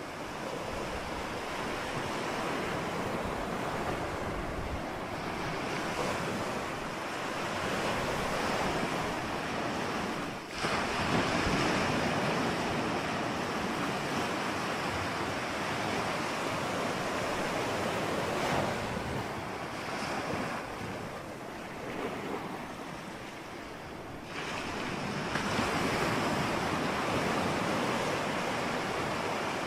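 Ocean surf: a continuous rush of waves that swells and eases. There is a brief drop about ten seconds in, and a quieter lull shortly before the waves build again for the last few seconds.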